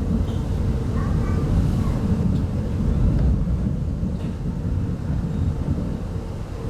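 Steady low rumble of a 25T passenger coach running along the track, heard from inside the carriage, with a faint steady hum underneath.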